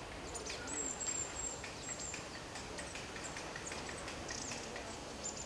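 Wild birds chirping in the forest: many short high chirps and quick sweeps, with one thin high whistle held for about a second starting about a second in.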